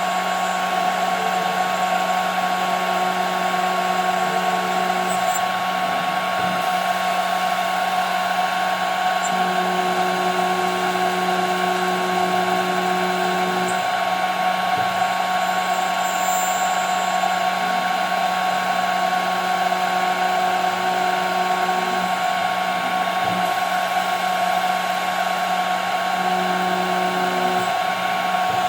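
CNC machine's spindle running steadily as it cuts 5 mm plexiglass, a constant high whine over a hiss. A lower hum comes and goes in stretches of a few seconds.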